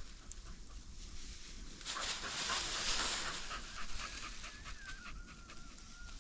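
Hunting dog panting hard, starting about two seconds in, with a thin wavering high whine over the last two seconds.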